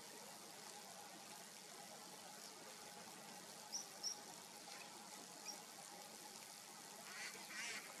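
Faint outdoor background hiss with wild birds calling: two short, high chirps about four seconds in, a softer one a second or so later, and a harsher, rasping call near the end.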